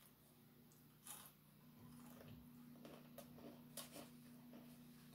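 Faint eating sounds from chewing crispy fried chicken: a few soft crunches and mouth smacks, over a steady low hum.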